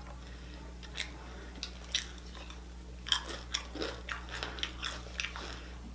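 Close-miked eating sounds of a person chewing crunchy food, crisp tortilla chips or corn shells. Single sharp crunches come about one and two seconds in, then a quicker run of crunching from about three seconds on.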